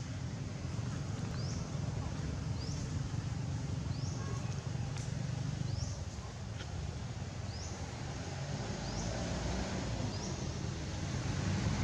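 A bird repeats a short, high, rising chirp about once a second over a steady low outdoor rumble. A low droning hum grows louder near the end.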